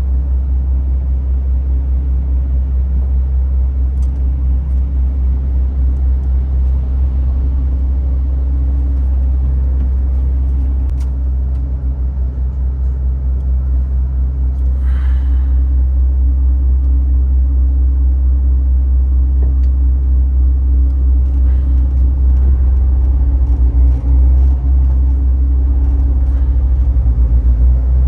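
Steady low rumble of a MAN TGX 18.510 truck's six-cylinder diesel engine running.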